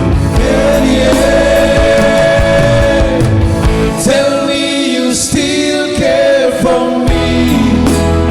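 Band music: long held sung notes over guitar and drums.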